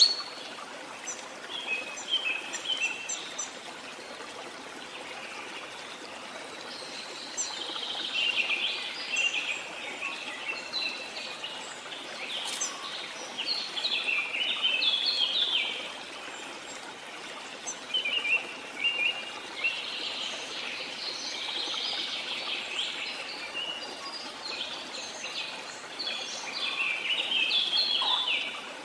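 Several birds singing and calling at once over a steady rush of flowing water, the songs coming in busy spells and then thinning out for a few seconds.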